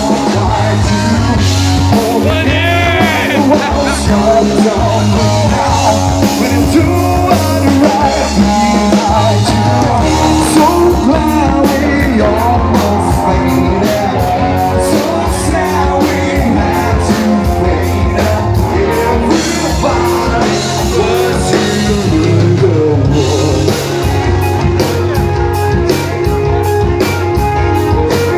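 Rock band playing live, a singer over guitar and a drum kit with a steady beat.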